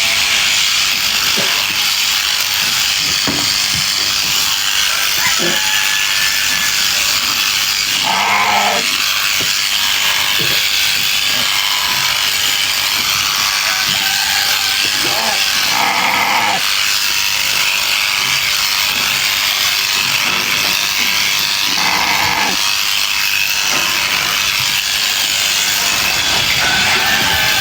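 Electric sheep-shearing clippers buzzing steadily as they cut through fleece, with a few short lower sounds about 8, 16 and 22 seconds in.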